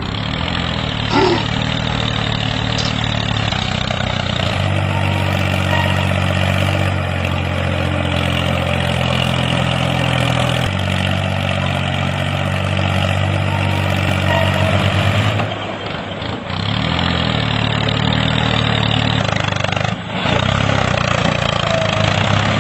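Small engine of a homemade mini tractor running steadily, its pitch shifting a few times, with brief dips in level about two-thirds of the way through.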